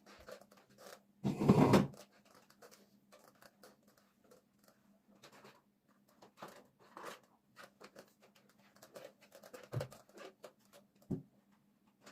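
Scattered small household handling noises, mostly scratching and clicking. A louder rustle comes about a second and a half in, and two dull knocks follow near the end.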